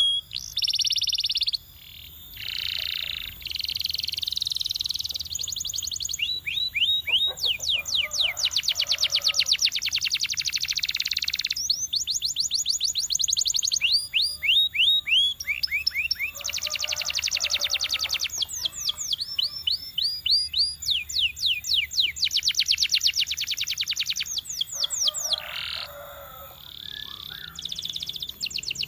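Canary singing a continuous song of fast repeated phrases. Runs of quick downward-swooping notes alternate with long, rapid rolling trills, each phrase lasting a second or two before the next begins.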